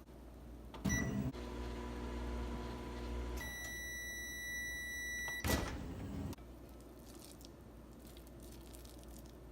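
Microwave oven: a short beep and a knock about a second in, then the oven running with a steady hum, then a long high beep for about two seconds, ending with a loud clunk of the door latch at about five and a half seconds.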